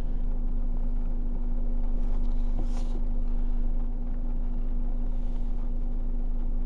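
Car heard from inside the cabin, moving slowly in reverse into a parking space, with a steady low hum over the engine rumble and a brief hiss about three seconds in.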